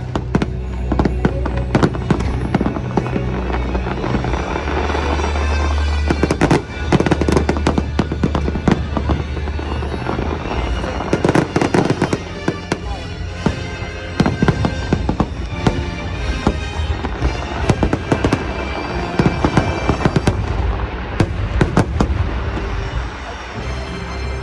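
Fireworks show: many sharp bangs and cracks of aerial shells, close together, over the show's music from the park speakers.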